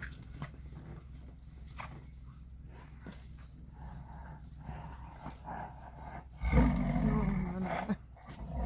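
Southern white rhino bull giving one low call, lasting about a second and a half, near the end. It is the rare vocal sound these usually silent animals make when bulls interact.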